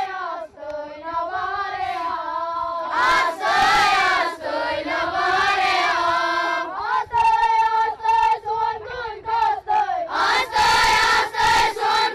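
A group of children singing together in long held notes.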